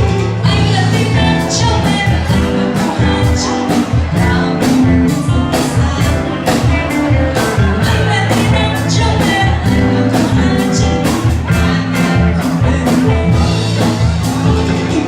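A band playing a song with a steady drum beat and sustained bass notes, with a singer's voice over it.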